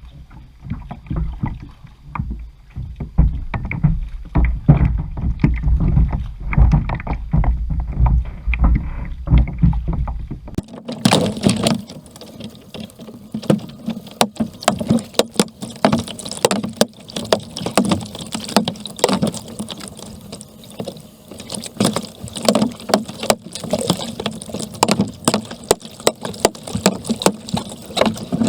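Kayak paddle strokes splashing and dripping in the water, repeating in uneven swells. For the first third a low wind rumble lies under them. About a third of the way in the sound changes abruptly to a brighter, splashier stretch without the rumble.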